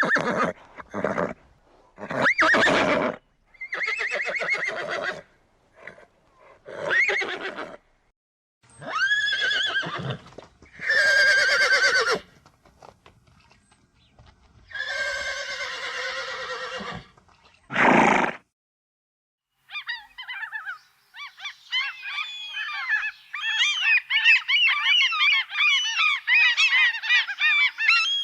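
A horse neighing in a string of separate whinnies and calls with short pauses between them. From about twenty seconds in, a flock of birds starts honking and chattering all together without a break.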